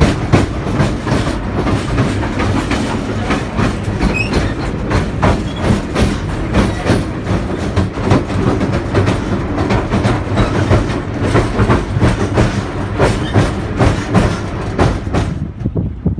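The Hythe Pier Railway's small electric train running along the pier, its wheels clattering over the rail joints in a dense, irregular clickety-clack over a steady low hum. The clatter drops away suddenly near the end.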